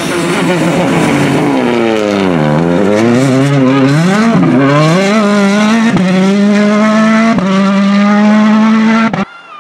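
Rally car engine revving hard: its pitch drops, then climbs in steps through the gears and holds high and steady, with two sharp cracks in the second half. The sound cuts off abruptly near the end.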